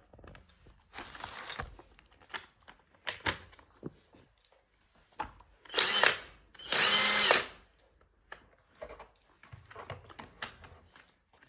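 Cordless 18V impact wrench triggered twice in short bursts about halfway through, its motor spinning up to a steady whine with no load, amid clicks and knocks of the tool being handled.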